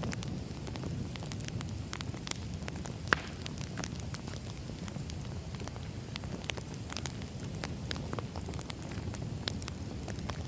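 Wood fire burning, crackling and popping irregularly over a steady low rumble, with one sharper pop about three seconds in.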